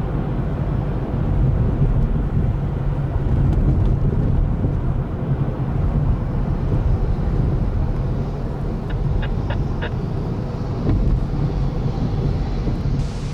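Jet airliner engine noise: a loud, steady low rumble that neither rises nor falls, with a few faint ticks about nine seconds in.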